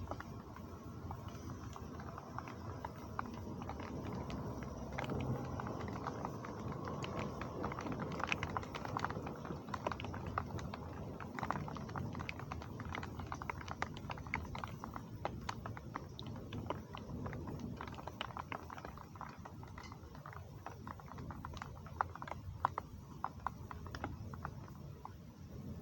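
Heavy rain falling steadily, with a dense, uneven patter of individual drops striking close by.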